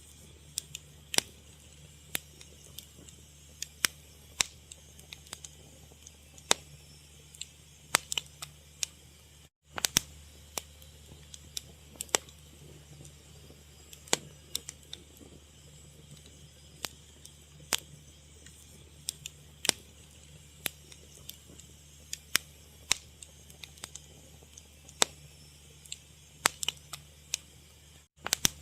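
Fire crackling, with irregular sharp pops and snaps, several a second, over a faint steady background.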